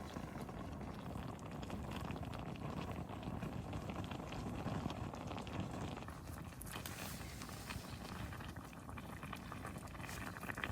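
A pot of braised pork kimchi stew bubbling on a gas camping stove, with a steady crackling simmer.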